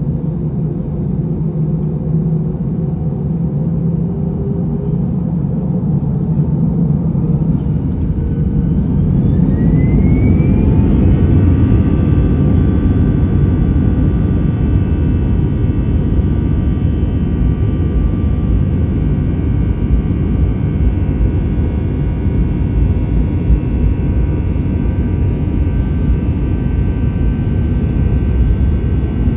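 Airbus A320 CFM56 jet engines spooling up to take-off thrust: a whine climbs steeply in pitch over about five seconds, then holds steady over a loud, continuous rumble.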